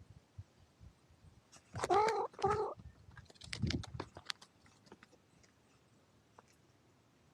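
A cat meows twice in quick succession, two short pitched calls, followed by a few clicks and a brief low rumble.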